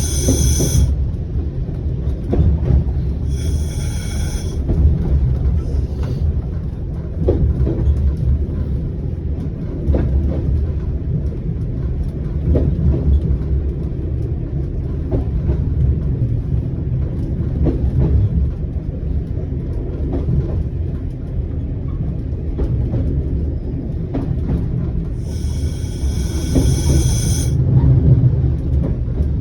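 Single-car diesel railcar running along the line, heard from the cab: a steady low rumble with scattered knocks from the wheels over the track. Three brief high squeals cut in, once at the start, once a few seconds in and once near the end.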